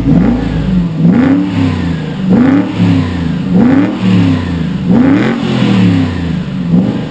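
Aston Martin V8 Vantage V8 engine through a QuickSilver aftermarket sports exhaust, blipped over and over: about six quick revs, roughly one a second, each rising and falling back.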